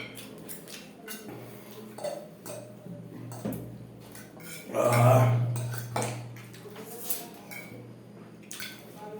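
Cutlery clicking and scraping against plates in quick, irregular taps as two people eat noodles fast. A short voice sound rises over it about five seconds in, and a steady low hum runs underneath.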